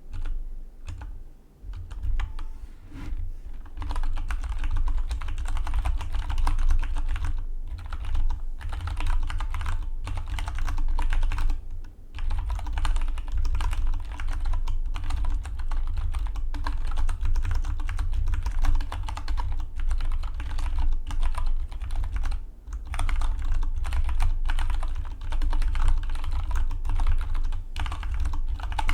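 Fast, continuous typing on a Dygma Defy split mechanical keyboard: a dense run of rapid key clicks that starts abruptly and pauses briefly a couple of times.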